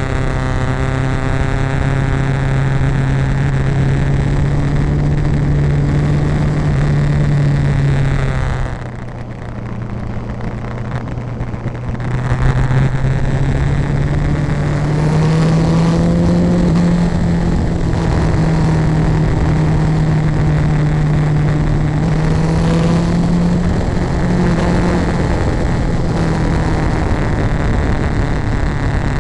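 A vehicle engine running steadily under way. It falls off in level for about three seconds around the ten-second mark, then picks up again with its pitch rising.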